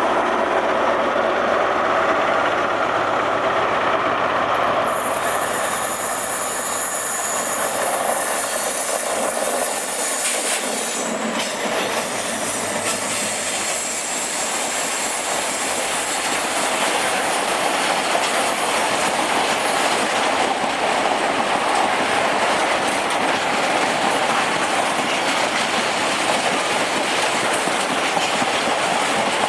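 A train running through the station: steady noise of wheels on the rails, with a strong high hiss coming in about five seconds in and holding throughout.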